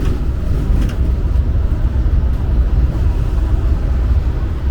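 Steady low rumble of a moving road vehicle, heard from on board.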